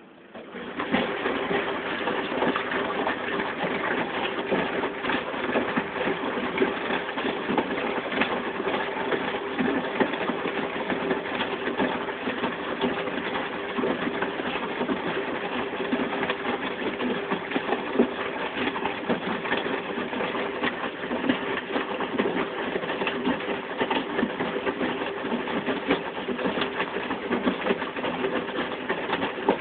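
Hajdu Energomat Komfort washing machine starting up suddenly about half a second in, then running steadily with a hum and a dense rattling clatter during its rinse programme.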